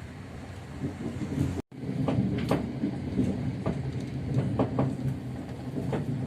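Passenger train running on the track: a steady low rumble with irregular sharp clacks and knocks from the wheels and carriage.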